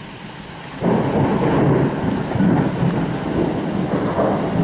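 Thunder: a loud clap breaks in suddenly about a second in and rumbles on, rising and falling, over steady rain.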